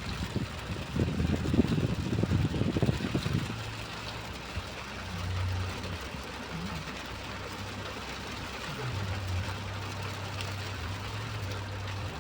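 Vehicle engine running with a steady low hum under a faint hiss, after a heavier, uneven low rumble for about the first three and a half seconds.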